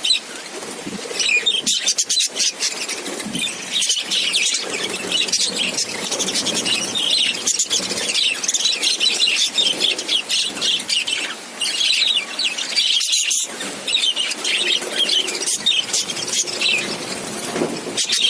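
A colony of budgerigars chirping and chattering, many birds calling over one another without a pause.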